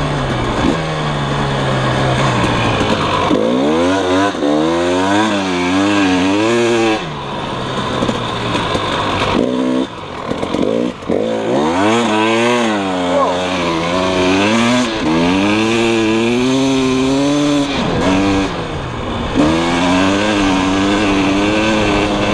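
KTM 300 EXC two-stroke single-cylinder dirt bike engine revving up and down under load, its pitch rising and falling with the throttle. The throttle shuts off briefly twice, around the middle and again later, then the revs climb again.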